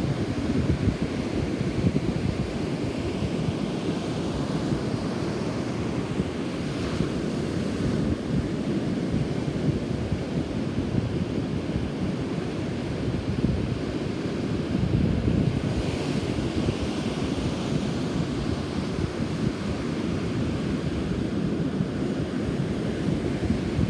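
Heavy wind buffeting the microphone over the steady wash of rough surf, the sea stirred up by a nearby typhoon.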